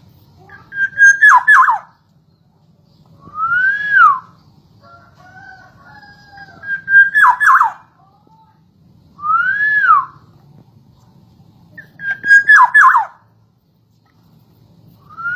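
Black-naped oriole (kepodang) singing loud, fluty whistles in a repeated pair of phrases every few seconds. One phrase is a held note breaking into quick falling notes; the other is a single arched whistle that rises and falls.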